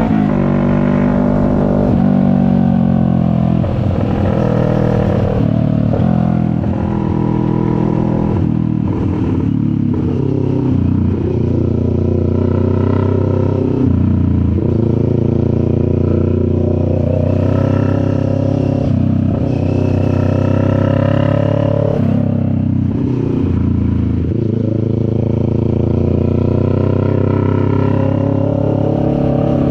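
CFMoto 400NK parallel-twin motorcycle engine running under way, its pitch repeatedly rising and then dropping back many times over the half minute.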